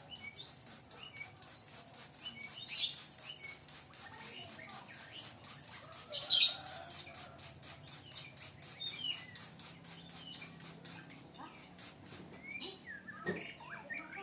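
Young sooty-headed bulbul chirping with many short, thin calls, broken by a few louder sharp bursts at about 3 s, 6.5 s and 12.5 s.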